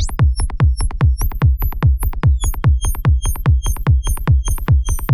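Electronic techno loop: a synthesized kick drum and bassline pulsing steadily, with a quick rising sweep at the start. Bright synthesized hi-hat ticks come in just after and repeat through the loop.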